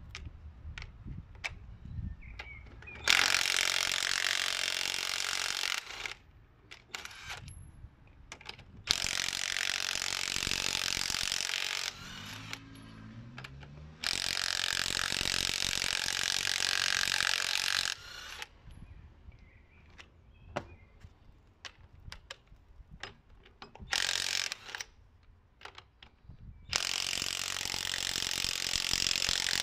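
A power tool run in five bursts of one to four seconds, with sharp clicks and knocks of tools between the bursts.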